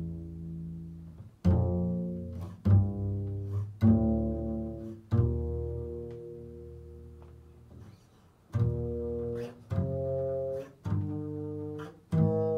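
Low plucked string notes played slowly: about eight notes, each struck sharply and left to ring and fade, with a long gap in the middle.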